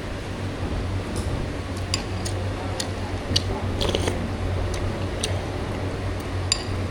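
Scattered light clicks and small crunchy sounds, about nine over several seconds, over a steady low hum.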